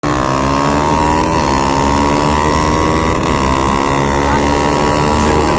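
Motorcycle engine under hard acceleration, running up through the gears. Its pitch climbs steadily and drops sharply at two upshifts, about a second in and about three seconds in.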